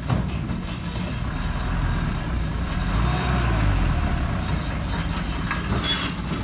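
Diesel engine of a sand-laden truck running heavily, its note rising and then falling once about halfway through.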